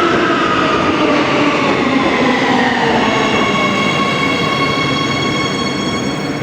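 Siemens Inspiro metro train running, its traction drive whine falling in pitch as the train slows. About halfway through, steady high tones take over.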